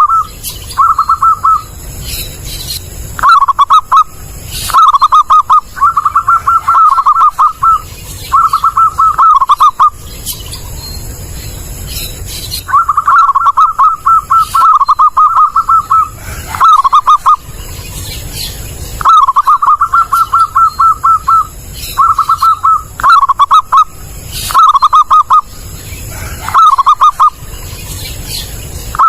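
Zebra dove (perkutut) cooing loudly, phrase after phrase of quick rolling pulsed notes. Each phrase lasts a second or two, with short pauses between.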